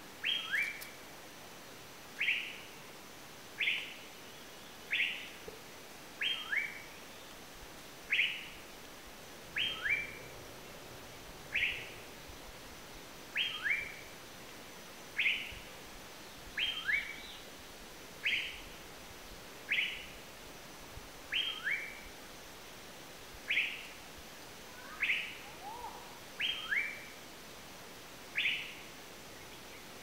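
Asian paradise flycatcher calling: a short, sharp falling note repeated about every one and a half to two seconds, many of them followed at once by a second, lower falling note.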